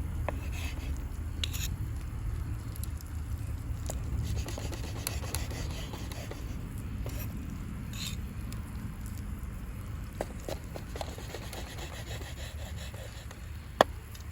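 Light scraping and scattered clicks over a steady low rumble, with one sharp click near the end.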